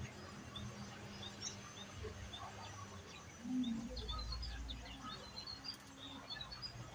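Mugimaki flycatcher calling: a scattered series of short, high chirps that come thicker in the second half. A low rumble comes about halfway through.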